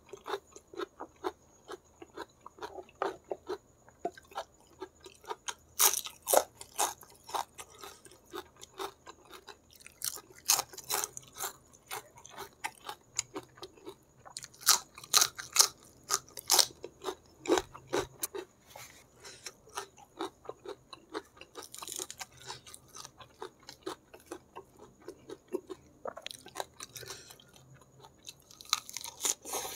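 Close-miked chewing, with clusters of sharp, crisp crunches as raw vegetables and lettuce leaves are bitten, about six, ten, fifteen and twenty-two seconds in and again near the end.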